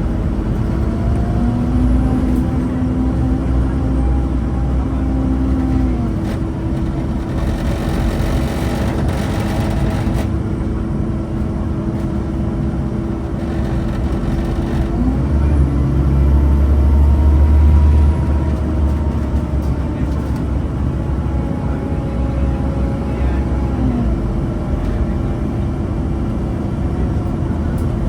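Scania N230UB Omnicity single-deck bus running. A whine rises in pitch and falls away twice as the bus accelerates and eases off, over a steady hum. There is a burst of hiss about eight seconds in, and the heaviest low rumble comes about two-thirds of the way through.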